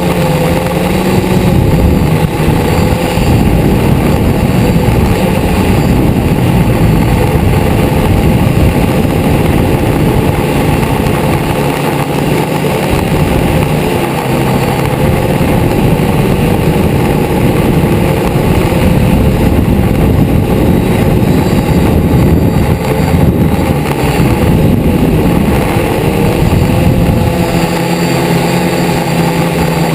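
Multirotor drone (DJI Flame Wheel) motors and propellers buzzing loudly close to the camera, the pitch wavering as the rotors change speed and steadying again near the end.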